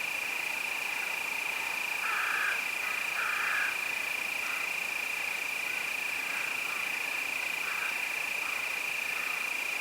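Crickets chirping in one steady, continuous high-pitched trill. Over it come a few short, lower animal calls, the two loudest about two and three seconds in.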